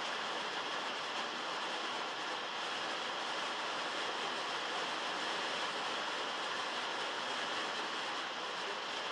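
Heavy rain falling on a metal roof, heard from inside a shed: a steady, dense hiss without breaks or single drops standing out.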